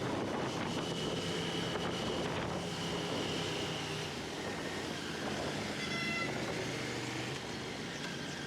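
A vehicle engine running steadily, with a brief high-pitched beep about six seconds in.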